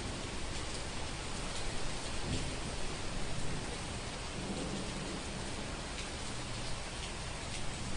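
Steady rain falling, with a low rumble of thunder that swells about two to three seconds in.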